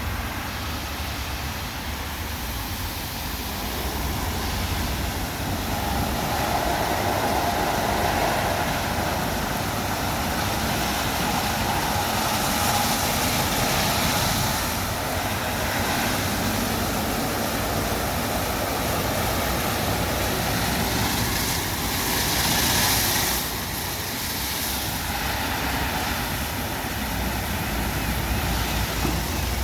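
WashTec SoftCare Pro Classic rollover car wash working over a car: a steady rush of machine and water noise that swells louder after a few seconds and again briefly near the end.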